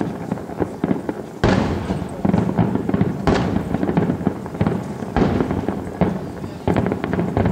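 Fireworks display with shells bursting in quick succession: a sharp boom every second or two, each followed by crackling and a fading rumble.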